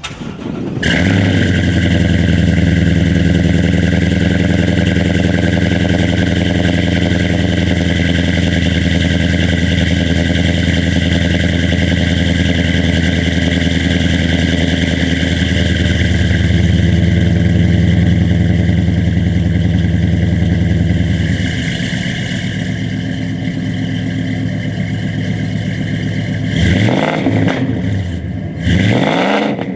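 Ford 7.3L Godzilla gas V8 breathing through long-tube headers and a custom muffled exhaust. It starts about a second in and runs at a raised idle. About two-thirds through it settles to a lower idle, and near the end it is blipped twice, each rev rising and falling quickly.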